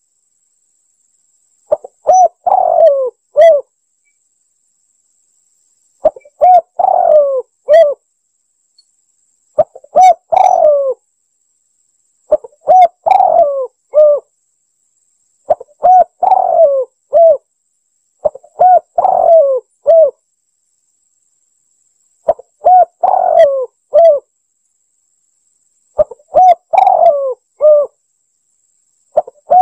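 Spotted dove (tekukur) cooing: a phrase of several short, bending coos, repeated about every three to four seconds with silence between, eight times over. It is played as a lure call to draw in wild doves.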